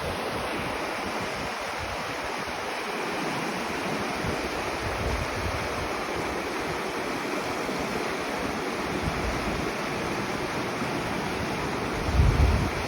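Mountain river rushing steadily over its bed. Near the end, a brief low buffeting on the microphone.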